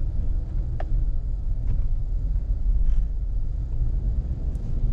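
Steady low rumble of a 2008 GMC Yukon Denali's 6.2-litre V8 and tyres as the truck drives slowly, heard from inside the cabin, with a few faint light ticks.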